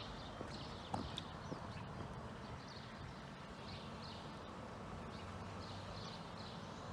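Small birds chirping over and over above a steady low outdoor rumble, with a single sharp knock about a second in.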